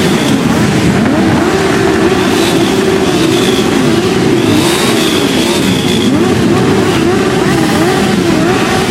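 Many motorcycle engines revving together, their pitches repeatedly rising and falling over one another.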